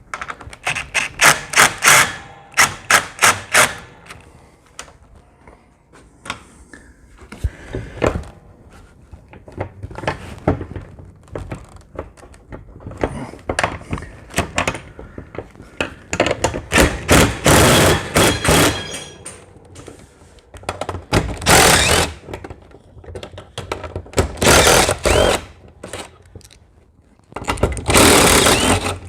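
Metal knocks and clicks with several one-to-two-second bursts of a cordless power driver, as the roller hardware is taken off a sectional garage-door panel.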